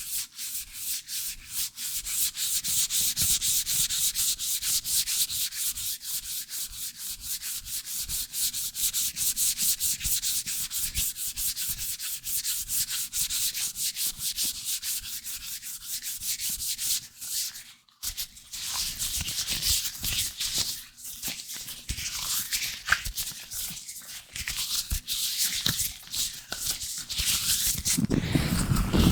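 Latex-gloved fingers rubbing and scratching right on a microphone in fast, even strokes. There is a brief stop about two-thirds of the way through, then the rubbing goes on less regularly.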